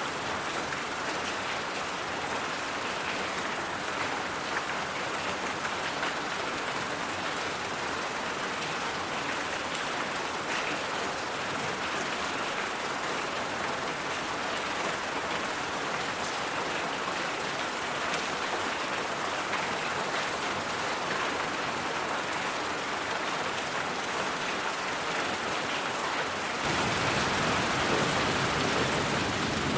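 Steady white-noise hiss, even and unbroken. About 27 seconds in it turns slightly louder and fuller, with more low rumble.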